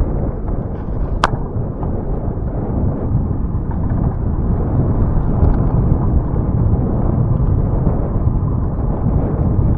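Wind buffeting the microphone of a camera on a moving bicycle: a steady, heavy low rumble, with one sharp click about a second in.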